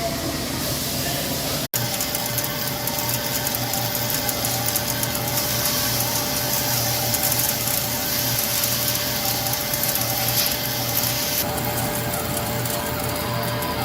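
CNC lathe running: a steady machine hum with a constant tone and a dense high hiss throughout, cut off for an instant about two seconds in.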